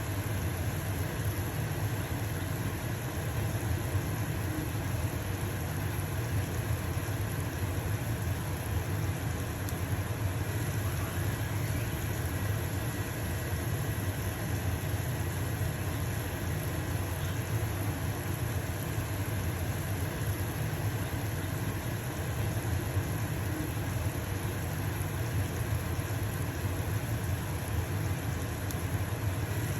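Stove-top range hood fan running with a steady low hum, with a pancake sizzling in a frying pan underneath.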